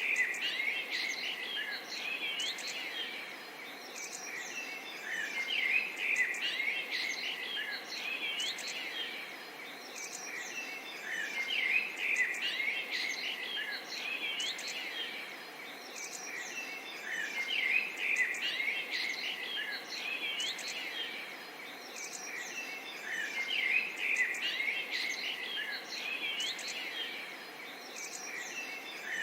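Many small songbirds chirping and trilling over a light, steady murmur of running water, the bird chorus swelling about every six seconds.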